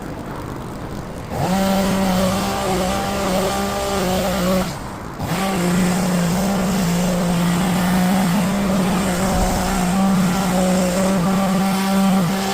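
Powered garden trimmer running at a steady high speed. It starts about a second and a half in, cuts out briefly around five seconds in, then runs on steadily.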